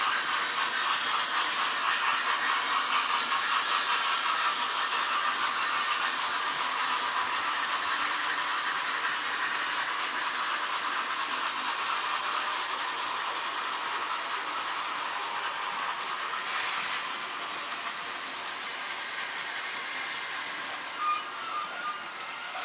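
H0-scale model trains running on the layout's track, a dense rattle of small wheels and motors that slowly grows quieter.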